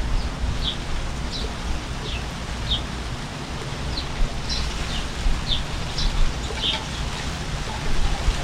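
Steady rain, with short high bird chirps, about a dozen, scattered through it.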